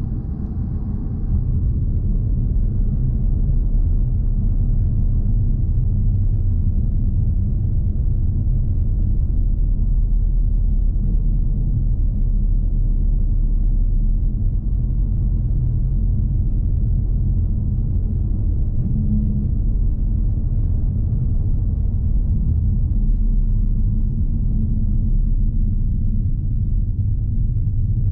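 Steady low rumble inside the cabin of a 2020 Jaguar XE P300, with its 2.0-litre turbocharged four-cylinder and tyres on the road, while cruising at an even pace.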